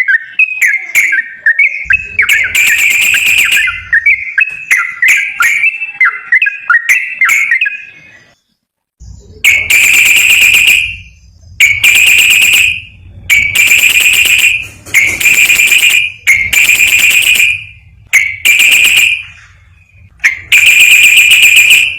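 Bird-song lure recording of a yellow-vented bulbul (trucukan): quick chirpy notes for the first eight seconds. After a brief pause come seven harsh, buzzing calls about a second long each, repeated every couple of seconds.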